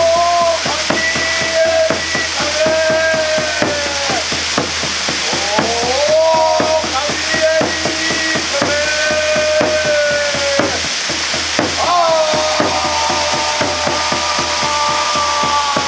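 Waterfall pouring in a steady, loud rush, with a person's voice over it in a series of long held notes of one to three seconds each, some sliding in pitch.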